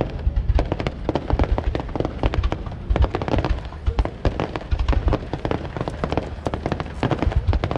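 Fireworks display: many aerial shells bursting in rapid succession, a dense barrage of sharp bangs and crackles several times a second over deep booms.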